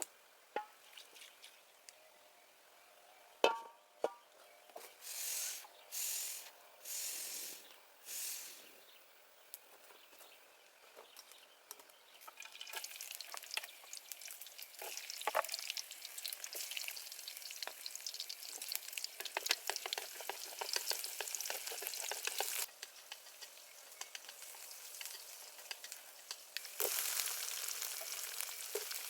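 Food frying in a pan: a few knocks and short hissing bursts, then a steady sizzle full of crackles sets in about halfway through and grows louder near the end.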